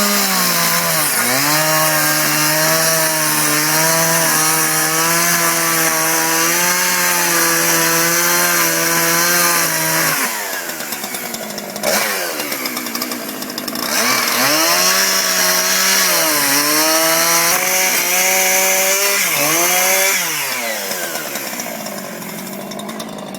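Chainsaw run at high speed, its pitch held steady for about ten seconds, dropping back, then revved up again with a couple of brief dips before easing off near the end.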